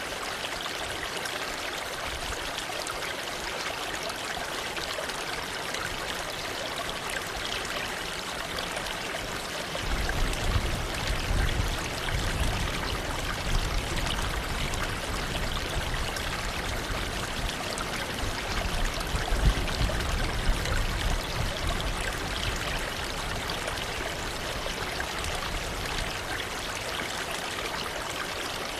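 Waterfall rushing steadily, a continuous hiss of falling and splashing water. From about ten seconds in a louder low rumble with a few bumps joins it for roughly ten seconds, then fades back.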